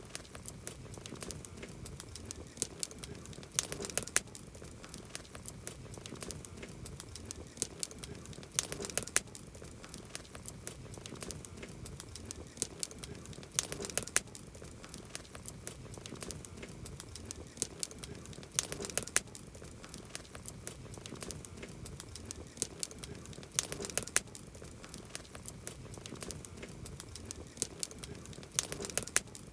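Wood fire crackling, with a steady bed of small crackles and clusters of sharper pops about every five seconds.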